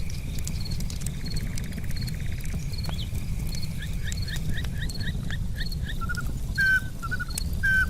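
Campfire crackling over a low steady rumble, with an insect trilling in the first half. From about three seconds in, an animal calls a run of short falling notes, about two or three a second, ending in louder, longer notes near the end.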